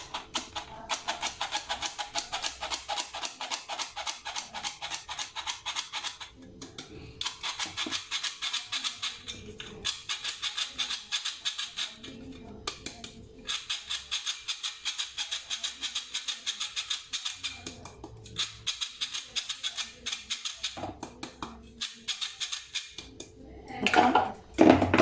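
Handheld mesh sieve being shaken and tapped over a bowl to sift powdered cake mix, rattling in a quick, even rhythm of about four taps a second, with a few short pauses.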